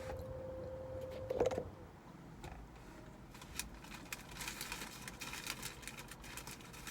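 A steady whine ends about a second and a half in with a brief, louder clunk, followed by faint scattered clicks and rustles.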